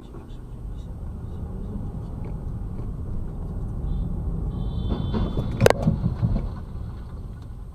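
Car road and engine rumble recorded by a dashcam, swelling for a few seconds, with a short high beep or horn-like tone and then one sharp bang, the loudest sound, about three-quarters of the way through, typical of a collision; the rumble then dies away.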